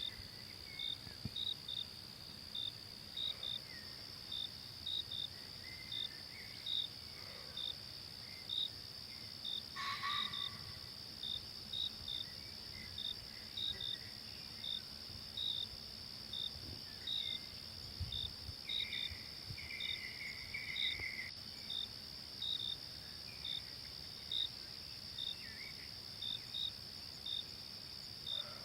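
Insects chirring in a forest: a steady high-pitched drone under short, evenly repeated chirps about one and a half a second. Faint scattered calls sound lower down, with a longer one around two-thirds of the way through and a brief sharper sound about a third of the way in.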